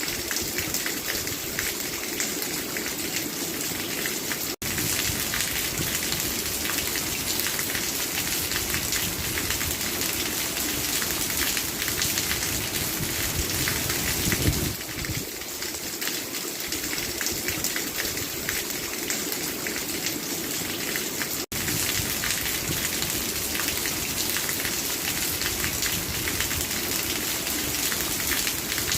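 Steady rain falling, an even hiss of many drops. The sound drops out for an instant twice, and there is a brief louder swell about halfway through.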